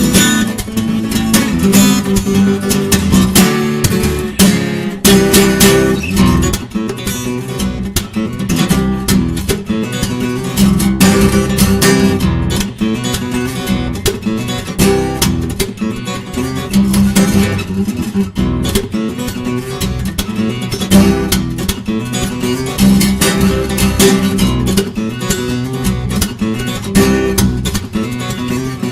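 Acoustic guitar played fingerstyle: quick plucked notes and sharp strums over ringing bass notes.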